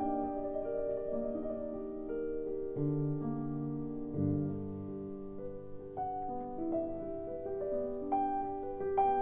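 Slow background piano music with long held notes.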